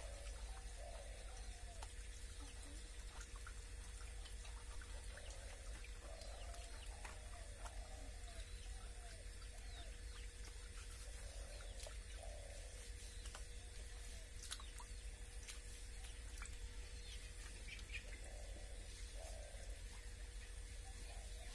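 Faint bird calls, short and repeated every second or two, over a steady low hum.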